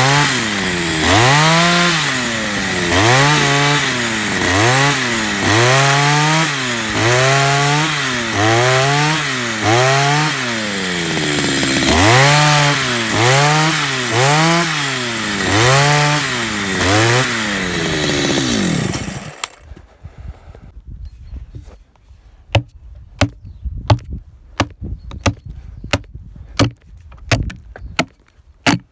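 Chainsaw cutting into a log, its engine speed dipping and picking up again about once a second as the chain bites and frees. It shuts off about two-thirds of the way through. After a short pause comes a series of sharp, irregular knocks.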